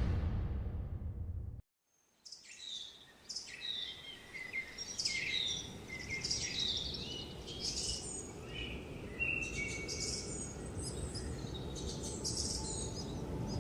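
The fading tail of a whoosh-and-impact sound effect cuts off about a second and a half in. After a short silence, many small birds chirp and sing in quick, overlapping calls over a steady low background noise.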